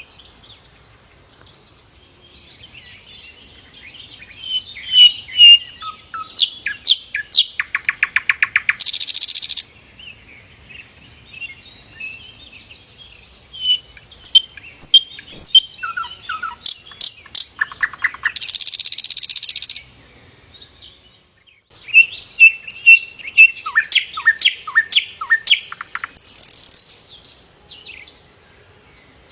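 A sikatan londo flycatcher singing in three bouts. Each bout mixes high whistled notes, fast rattling trills and short harsh buzzy bursts, with brief pauses between the bouts.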